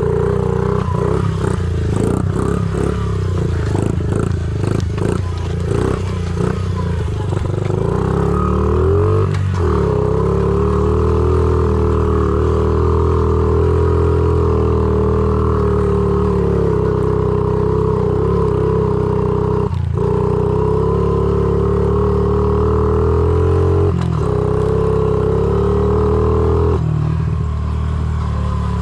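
Honda CRF50 pit bike's small single-cylinder four-stroke engine running under throttle while riding, with a rattle of knocks and clatter over the first several seconds. It then holds a steady note, and eases off about a second or two before the end.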